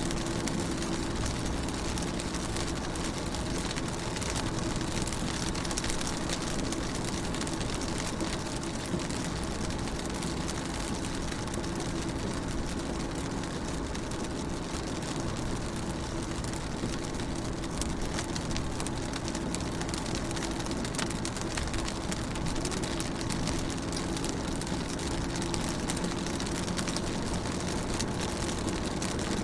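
Rain falling on a car's window, with many small drop ticks over a steady hiss. A steady low hum runs underneath.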